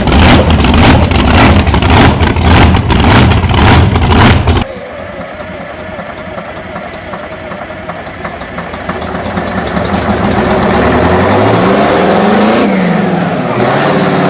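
Large engines running: a loud engine with fast, regular firing pulses stops abruptly about four and a half seconds in. Then a quieter engine comes up, growing louder as it runs up, its pitch rising and falling near the end.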